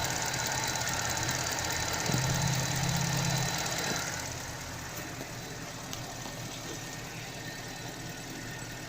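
Car engine idling with its serpentine accessory belt running, no longer squealing after being treated with silicone grease. A steady hiss over the engine stops about four seconds in.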